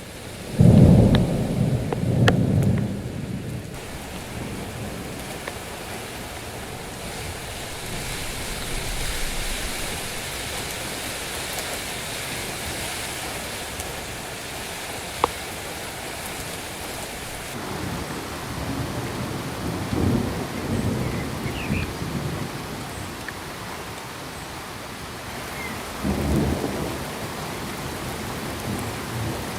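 Steady rain with low rolls of thunder: the loudest roll comes about a second in, with weaker ones later, around two-thirds of the way through and near the end.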